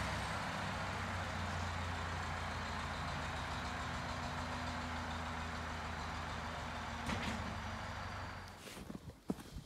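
An engine running steadily, then shutting off about eight and a half seconds in, followed by a few sharp knocks or footsteps.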